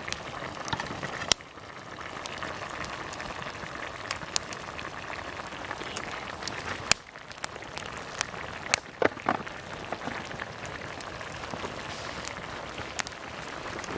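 A pot of food boiling and sizzling over a campfire: a steady bubbling hiss with scattered sharp crackles and pops.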